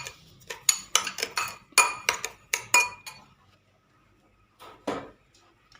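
A spoon clinking against a small bowl while stirring grated lemon zest into sugar: a quick run of sharp, ringing clinks for about three seconds, then two more near the end.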